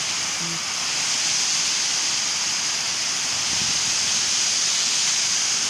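Heavy rain pouring down in a strong windstorm: a loud, steady, even hiss.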